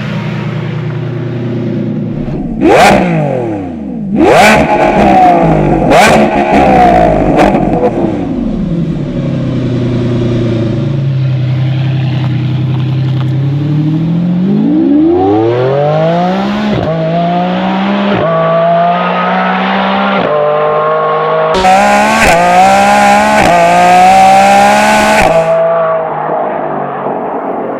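Lamborghini Revuelto's V12 through a stainless cat-back exhaust. Early on it revs sharply twice with loud cracks, then settles to a steady cruise. About halfway in it pulls hard with a rising pitch through several quick upshifts, each one dropping the pitch, and eases off near the end.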